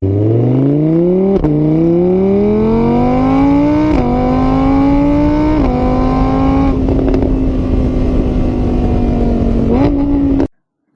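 Car engine accelerating through the gears: its pitch climbs, dips at each of three shifts, then holds steady before cutting off suddenly near the end.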